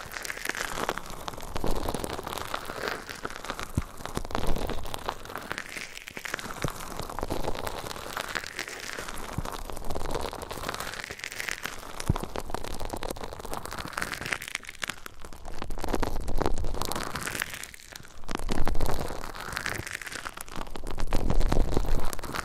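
Crackling, rustling ASMR rubbing close on a 3Dio binaural microphone's ears. It swells and fades in repeated strokes about every one and a half to two seconds.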